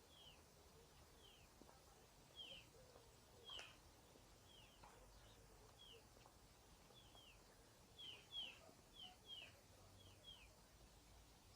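Faint bird calls: short, high, falling chirps repeated about once a second, often in quick pairs. One sharp click comes about three and a half seconds in, over a faint low background rumble.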